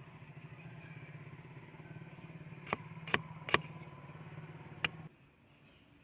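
An engine idling with a low, steady, pulsing hum that cuts off suddenly about five seconds in, with four sharp clicks or knocks over it in the middle.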